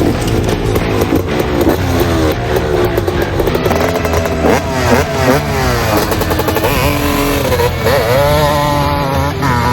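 KTM 250 SX two-stroke dirt bike being ridden hard, its engine revving up and dropping back again and again as the rider accelerates and shifts.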